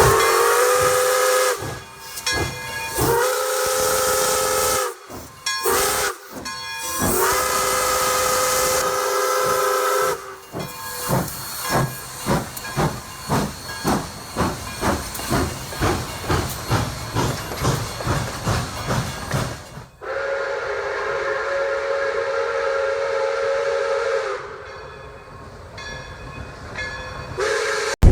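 Steam locomotive sounding its steam whistle in several held blasts, then chuffing in a steady rhythm of about two beats a second, followed by another long whistle blast and a short toot near the end.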